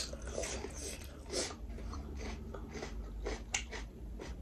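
Close-up chewing and smacking of people eating a meal of fried pork and rice, with many short sharp mouth clicks scattered through it.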